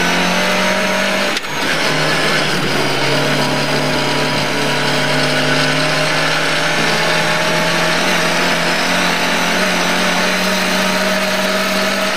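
Lada 1200's four-cylinder engine pulling hard at high revs, heard inside the rally car's cabin. About a second and a half in it shifts up, with a short break and a drop in pitch, then the revs climb slowly again.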